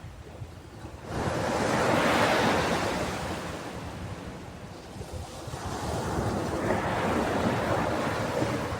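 Ocean waves breaking on a beach: a steady wash of surf with two waves, one surging in about a second in and fading, the next building to a second peak near the end.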